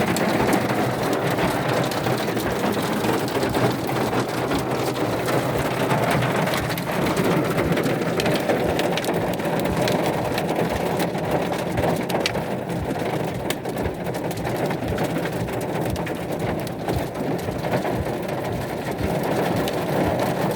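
Hailstorm: hail and heavy rain pelting down as a steady loud hiss, thick with sharp impacts.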